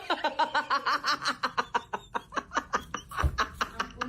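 A person laughing in a long, fast run of short pulses, several a second.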